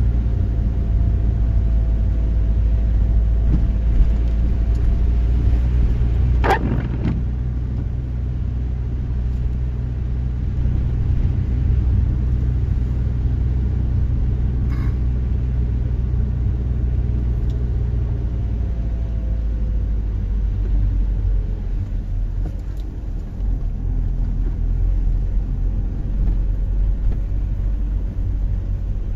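A steady low rumble, with a single short sharp sound about six and a half seconds in.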